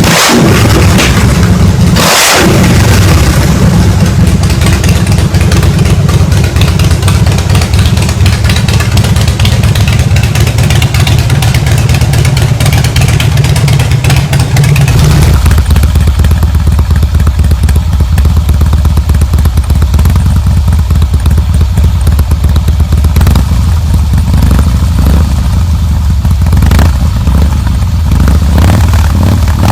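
Harley-Davidson Breakout's V-twin engine running loud through its exhaust, rough and noisy at first. About halfway through, the rougher upper noise drops away and a steady, deep exhaust note remains.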